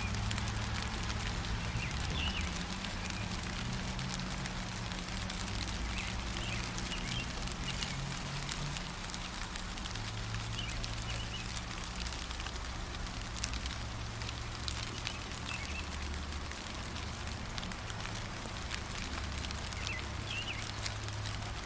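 Steady gentle rain with drops pattering, and small birds giving short chirps now and then, over a low steady rumble.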